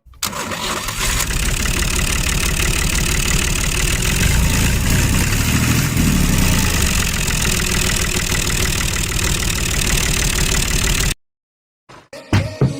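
An engine running steadily with a rapid pulsing beat. It cuts off abruptly about eleven seconds in, and a few faint clicks follow.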